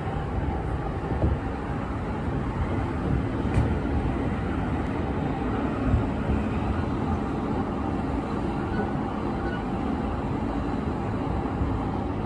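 JR East commuter train running at speed, heard from inside the passenger car: a steady rumble and rush of wheels on the rails, with a few soft knocks.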